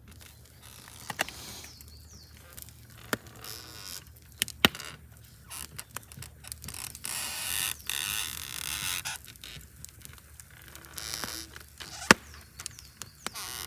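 Scattered sharp clicks and knocks, the loudest about twelve seconds in, with a stretch of rustling in the middle.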